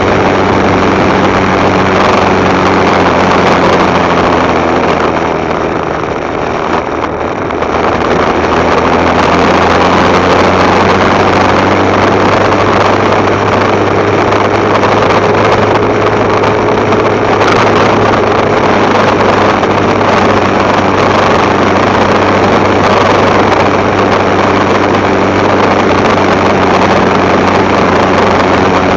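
Motorcycle engine running while riding, its steady hum mixed with wind and road noise. About six seconds in the engine eases off briefly, dropping in pitch and loudness, then picks back up.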